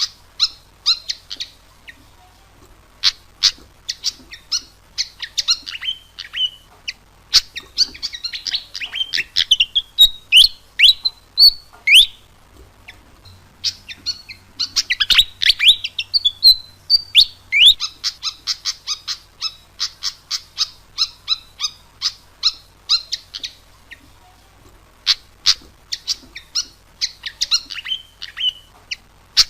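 Fantail (sikatan kipas) song used as a bird-luring call: fast runs of short, high chirping notes mixed with a few sweeping whistled notes. The song stops briefly about two seconds in, around the middle, and again near the end.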